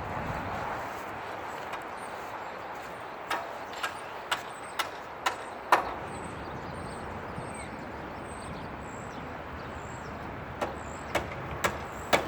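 Concrete pump running with a steady noise, with two runs of sharp knocks about two a second: one a few seconds in and another near the end.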